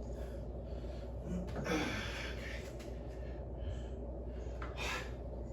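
A man breathing out hard between exercise sets, a long exhale about two seconds in and a shorter one near the end, over a steady low hum.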